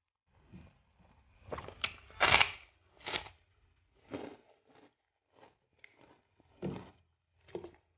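Close-miked chewing and crunching of a crisp white kerupuk cracker eaten with rice: a run of irregular crisp crunches, the loudest a little over two seconds in.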